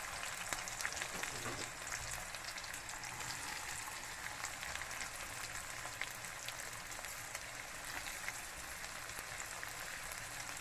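Finely chopped onions sizzling steadily in a generous amount of hot oil in a kadai, with a continuous crackling hiss as they start to sauté.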